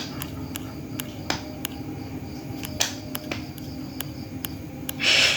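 Scattered light clicks or taps, several a second at uneven spacing, over a steady low hum, with a short hissing burst near the end.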